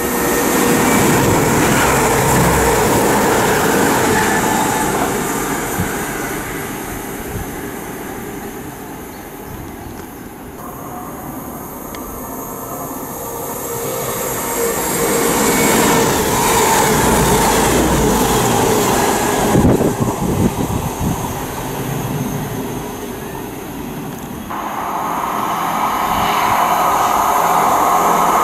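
Diesel multiple units going through a station one after another: a West Midlands Railway Class 196 swells past in the first few seconds, a CrossCountry Class 221 Super Voyager follows about halfway through, and a pair of Transport for Wales Class 158s draws near at the end, each with engine drone and wheel-on-rail rumble.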